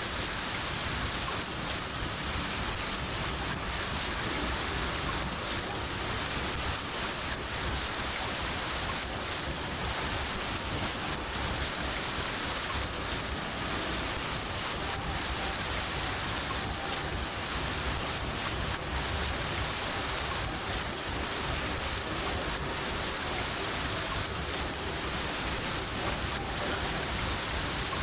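A cricket chirping steadily in a high, even rhythm of about two to three chirps a second, over the steady hiss of rain.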